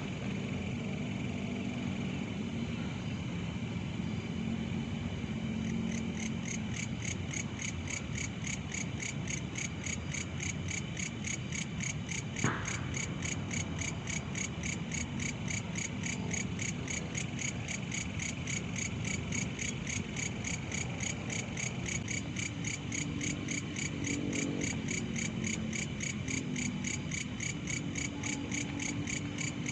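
Crickets and other night insects chirring steadily over a low background rumble. A higher, rapidly pulsing trill joins about six seconds in, and there is a single sharp click about twelve seconds in.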